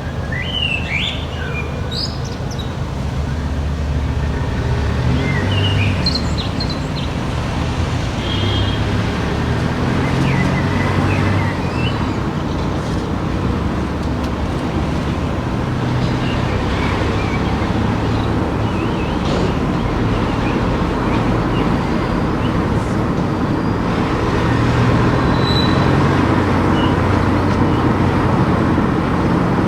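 Car driving through town streets: steady engine and road noise with a low rumble that rises and falls with speed. A few short high chirps come through in the first seconds.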